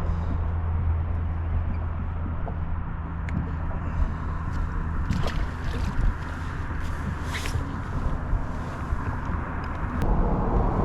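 A boat on the water: a steady low motor hum with water sloshing and gurgling. The hum fades about two thirds of the way through, and a few light knocks come in the middle.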